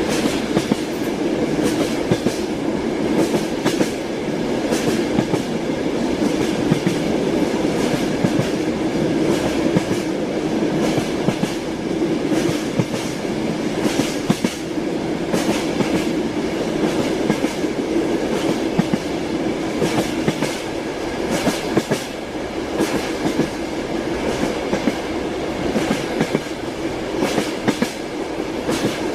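Train wheels clattering over the rails, heard from inside a moving railway carriage: a steady rolling rumble with frequent sharp, irregular clicks and knocks.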